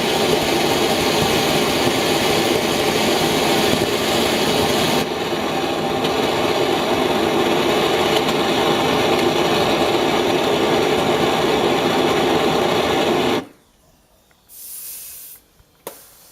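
Small rocket engine burning gaseous oxygen and ethanol, firing with a steady, loud roar that drops slightly about five seconds in and cuts off suddenly about thirteen seconds in. A short high hiss follows about a second after shutdown, then a single click.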